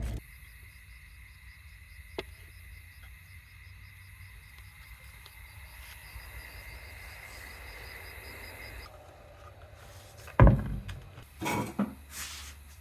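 Insects chirping steadily in a high, finely pulsing trill, which drops away about nine seconds in. About ten seconds in there is a sharp loud knock, followed by a few smaller clatters.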